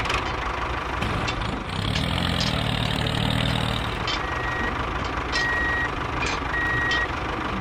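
Miniature model construction vehicle running steadily with an engine-like hum, joined about halfway through by a reversing beeper sounding three times, about one beep a second.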